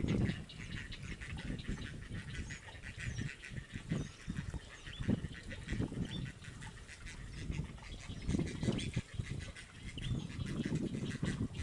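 Outdoor animal calls: irregular low calls come and go under many short, high bird chirps.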